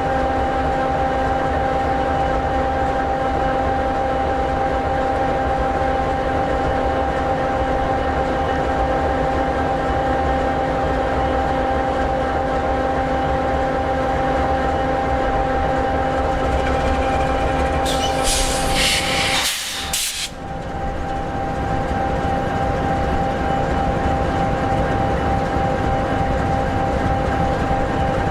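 EMD 16-710G3B sixteen-cylinder two-stroke diesel in an SD60E locomotive idling steadily, a constant rumble with a few steady whining tones. About two-thirds of the way through, a short burst of hiss cuts in for about two seconds, and the sound dips briefly.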